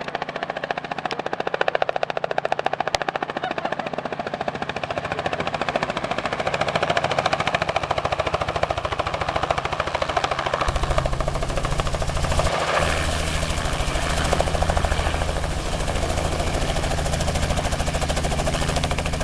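Small helicopter's rotor blades chopping in a fast, even beat, growing louder as it comes in to land. About halfway through, a deep low rumble joins as it draws close.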